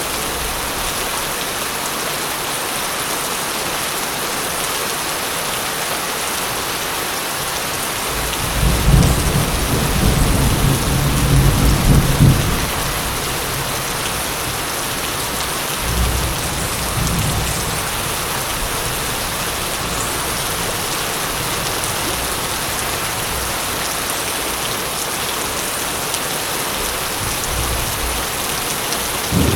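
Steady rain falling, with rolling thunder: a long low rumble from about a third of the way in lasting some four seconds, a shorter one about halfway, and another starting at the very end.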